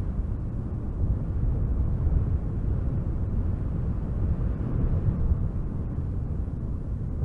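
Strong wind gusting through spruce trees, heard as a low, deep rush that swells and eases slightly without a break.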